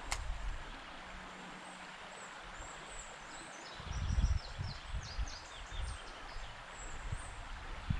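Outdoor ambience over a steady hiss, with a bird singing a run of short, high, falling chirps through the middle. A single sharp click comes right at the start, and low rumbling sets in about four seconds in.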